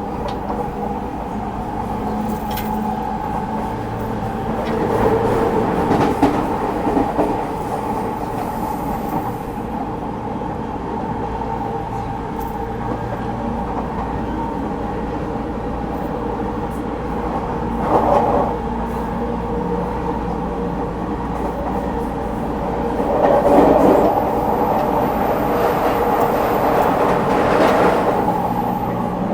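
A JR East 209 series electric commuter train running, heard from inside the car: a steady hum of motor and gear tones over wheel-on-rail noise. The rail noise swells louder about five seconds in, briefly around eighteen seconds, and again from about twenty-three to twenty-eight seconds.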